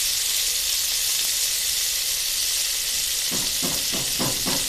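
Chicken pieces and chopped garlic sizzling in hot ghee in an aluminium pot, a steady hiss. From about three seconds in, a silicone spatula stirs and scrapes the pan in short regular strokes, about three a second.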